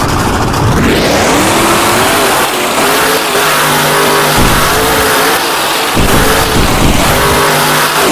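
Grave Digger monster truck's supercharged V8 engine revving hard, its pitch climbing and dropping again several times as the driver works the throttle.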